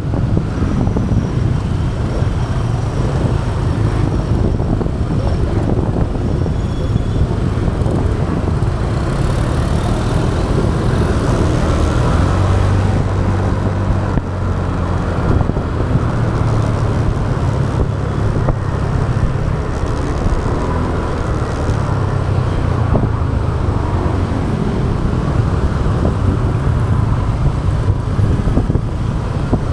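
Steady engine and road noise from a moving motorbike, with the low rumble of surrounding street traffic.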